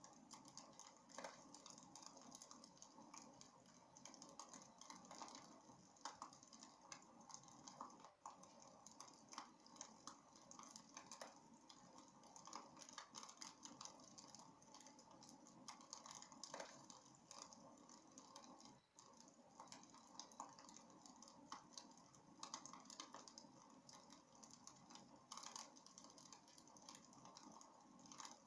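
Faint crackling of burning wood in a fireplace: a steady scatter of small irregular pops and snaps over a soft hiss.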